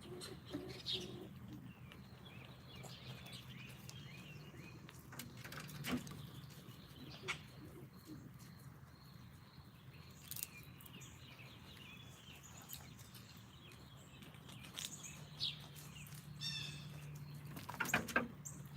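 Small birds chirping and calling on and off over a steady low hum, with a few sharp clicks and a quick cluster of taps near the end.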